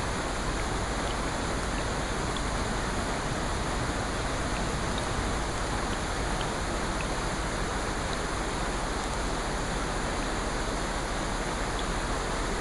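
Steady rushing water noise from a nature-sound recording, even in level throughout, with faint scattered small ticks.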